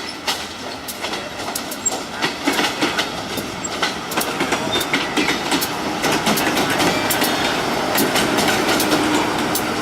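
Freight train cars rolling past, their steel wheels clacking steadily over the rail joints with many sharp clicks, growing busier toward the end.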